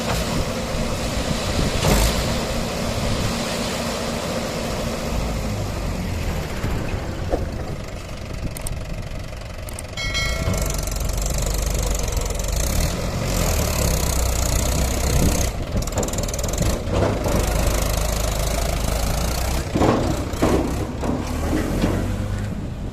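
Mahindra 575 tractor's diesel engine running steadily while hauling a loaded trolley; about ten seconds in the engine note grows louder and heavier.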